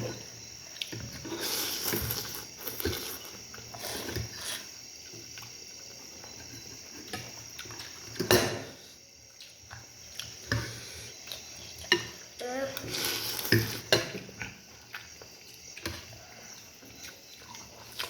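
Metal spoon clinking and scraping against a bowl of noodle soup, in scattered short knocks with a few longer noisy stretches.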